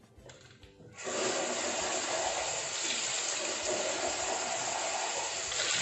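Water from a tap running steadily, splashing into a plastic vacuum dust container being rinsed; it starts suddenly about a second in.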